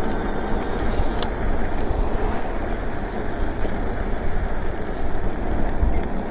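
Steady rush of wind and tyre noise from an electric bike being ridden on pavement, with one sharp click about a second in.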